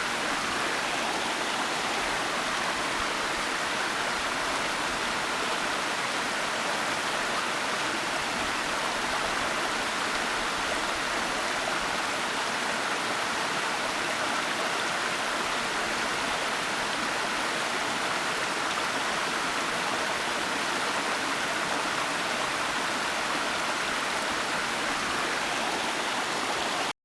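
Waterfall rushing in a steady, even wash of water noise.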